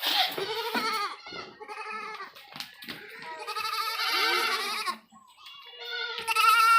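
Goat kids bleating, several quavering calls one after another, one long drawn-out bleat in the middle and the loudest near the end.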